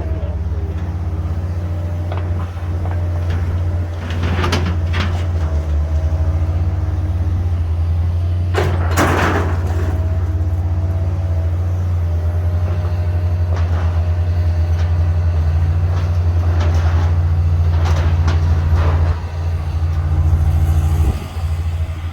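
A large engine running steadily, as on heavy demolition equipment, with a few separate knocks and clatters over the top.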